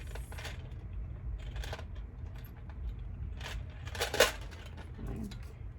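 A handful of short, sharp clicks and scrapes of hard objects being handled, the loudest about four seconds in, as a hole in a plastic part is worked wider.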